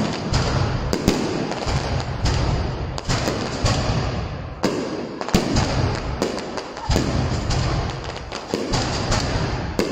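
Aerial firework shells bursting overhead, a dozen or so sharp bangs at irregular intervals with a constant rumble between them. Each bang rings on after it.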